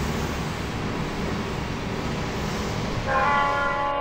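A train running by with steady rolling noise. About three seconds in, its horn sounds loudly, several tones at once.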